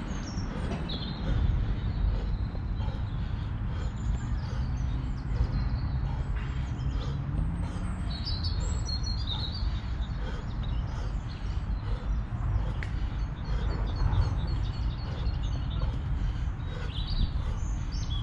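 Small birds chirping and twittering on and off, over a steady low rumble.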